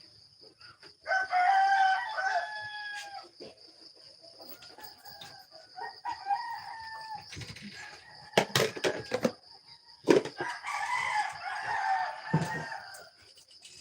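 Rooster crowing three times, each a long drawn-out crow, the first the loudest, with a few sharp knocks between the second and third crows.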